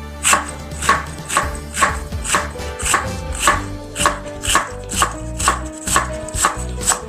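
A knife chopping vegetables on a cutting board, in even strokes about twice a second, over background piano music.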